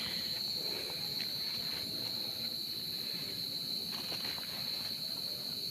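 Field crickets calling in a steady, unbroken high-pitched trill, with a few faint rustles.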